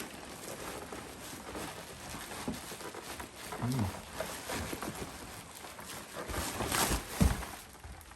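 Packing material being rustled and pulled out of a cardboard box: crinkling and handling noises, with a louder rustle and a thump about seven seconds in. A short low vocal sound, like a grunt, is heard near the middle.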